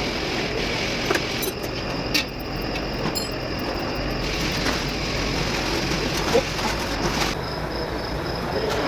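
Volvo truck diesel engine running steadily, with a few sharp clicks and knocks over it.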